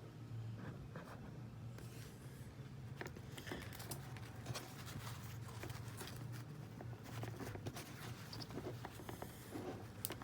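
Handling noise: scattered small clicks and rustles over a steady low hum.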